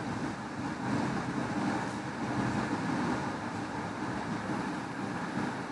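Tomato-onion masala frying in a stainless-steel kadai while a steel spoon stirs it, over a steady low rumble with no clear breaks.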